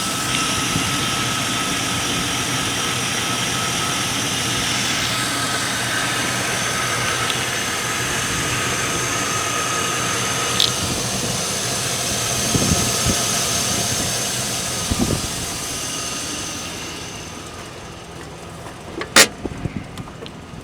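Chevrolet 5.3 L LM7 Vortec V8 idling steadily. The sound dies down about sixteen seconds in, followed by a few sharp clicks near the end.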